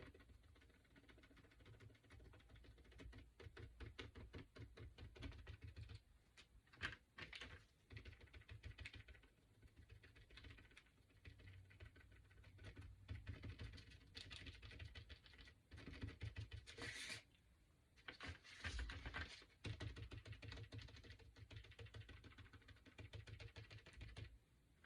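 Faint, rapid soft scratching and tapping of a paintbrush working paint onto a small wooden cutout, with a brief brighter brush of noise about two-thirds of the way through.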